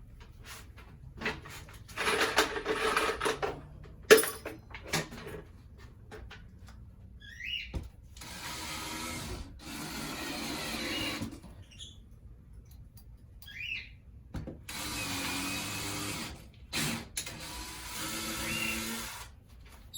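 Hand-held power tool running in three bursts of two to three seconds each, with short high squeaks and clicks between them.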